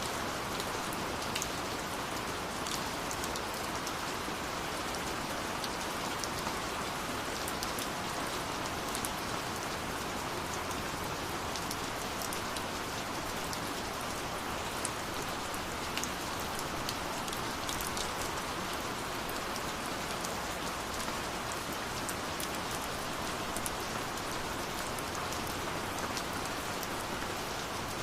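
Steady rush of falling water, even throughout, with scattered small sharp crackles of a wood fire over it.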